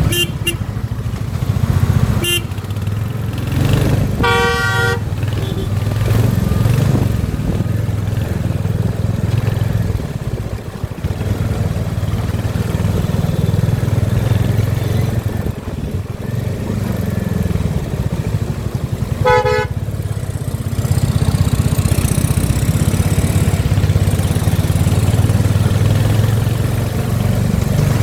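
Royal Enfield Hunter 350's single-cylinder engine running steadily on the road, with a vehicle horn sounding briefly twice, a few seconds in and again about two-thirds of the way through.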